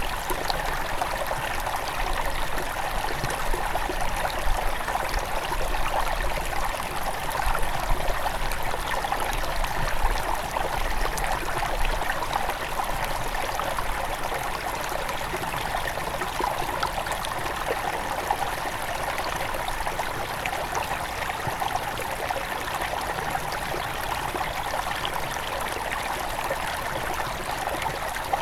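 A small headwater river flowing over rocks: a steady, continuous rush of water with trickling and gurgling.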